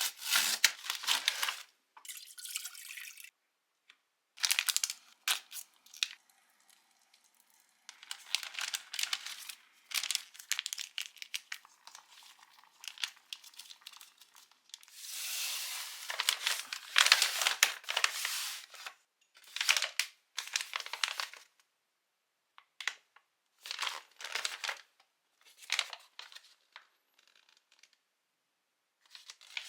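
Plastic instant-food packaging crinkling and being torn open, in irregular bursts separated by short pauses.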